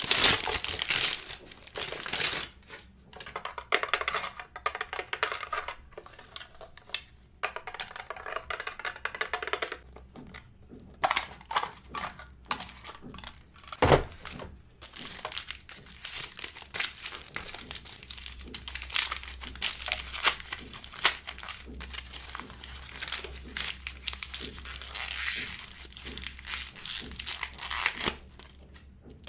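Plastic packaging crinkling and tearing in irregular bursts, with scattered sharp clicks and snaps, as LOL Surprise doll wrappers are unwrapped.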